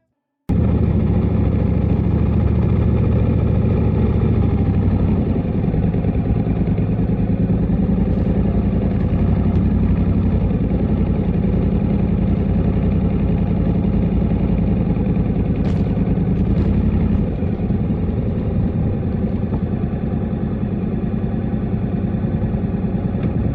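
Motorcycle engine running steadily while riding, heard from on the bike. It cuts in suddenly about half a second in, and the level drops slightly about three-quarters of the way through.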